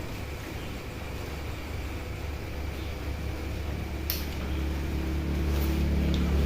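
A steady low engine-like hum that grows louder toward the end, with one sharp click about four seconds in.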